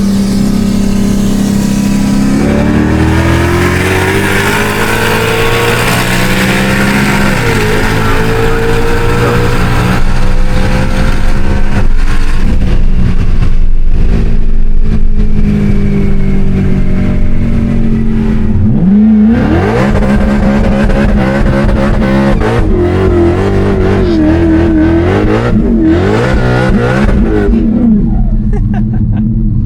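A car's engine heard from inside, pulling hard twice. Its pitch climbs for several seconds early on, then jumps up again about two-thirds of the way through and wavers up and down, over a steady low drone.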